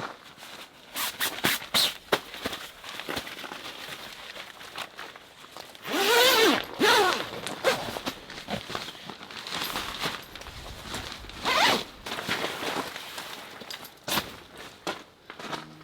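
A zipper being pulled several times amid rustling and handling sounds. The longest, loudest pulls come about six and seven seconds in, with another near the end, their pitch rising and falling with the speed of the pull.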